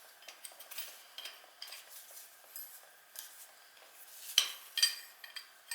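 Small metal clicks and clinks of hand tools working on an oil burner's nozzle assembly while the nozzle is changed, with a couple of sharper clinks about four and a half seconds in.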